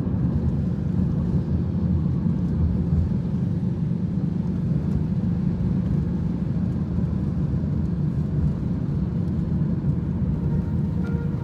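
Steady low rumble of a moving vehicle, which cuts off abruptly at the very end.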